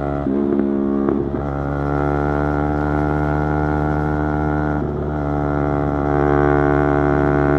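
Yamaha YZF-R3's 321 cc parallel-twin engine running at steady revs under way. The steady note breaks briefly about a second in and again about five seconds in, then grows a little louder near the end.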